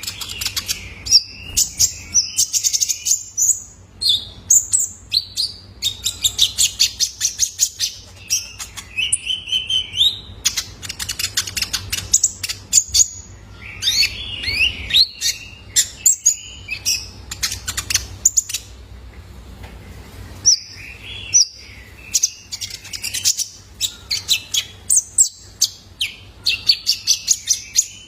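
Young male kolibri ninja sunbird singing: rapid runs of high, thin chirps and trills in quick bursts, with short pauses between phrases. A faint steady low hum lies underneath.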